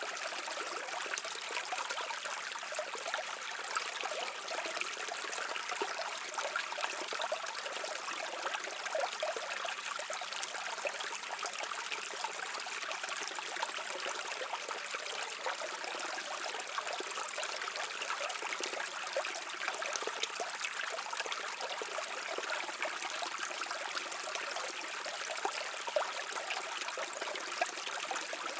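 Shallow stream flowing and trickling over rocks, a steady babbling rush of water.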